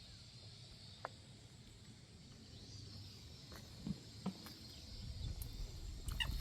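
A faint, steady high-pitched drone of insects in summer vegetation, with a few soft clicks and a low rumble that grows louder near the end.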